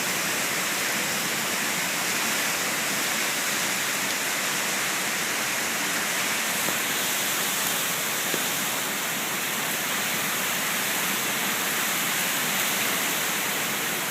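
Steady hiss of a tropical storm: wind-driven rain and surf, unbroken throughout.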